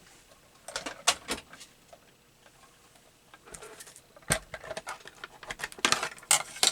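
Craft tools and materials being handled on a work table: scattered clicks, taps and light rattles, with a sharper knock about four seconds in and a quick run of clicks near the end.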